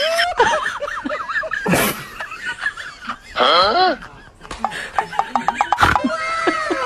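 Laughter in several short outbursts, with a run of quick, rapid pulses about five seconds in.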